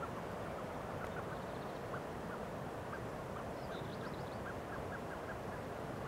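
Steady outdoor rushing noise with a bird calling over it in short, repeated, clipped notes a few times a second. A couple of brief higher-pitched note clusters come about a second and a half in and again around four seconds.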